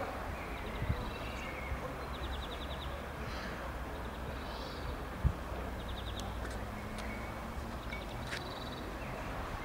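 Short, rapid, high chirping trills of small birds, several times over a low steady rumble, with a single sharp knock about five seconds in.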